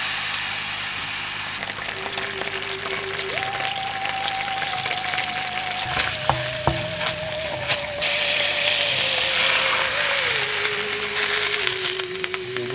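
Red seasoning paste frying in hot oil in a pan, a steady dense sizzle with a few clicks from the wooden spatula as it is stirred. Halloween background music joins about two seconds in, a slow wavering melody that steps lower in pitch near the end.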